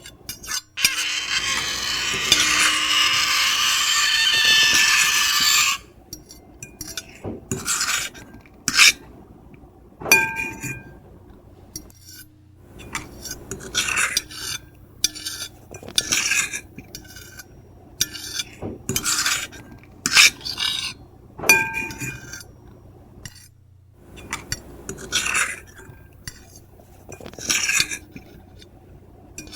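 Metal fork and knife scratching and scraping on a plate: one long continuous scrape in the first few seconds, then a run of short scratches and clinks, some leaving a brief ringing tone.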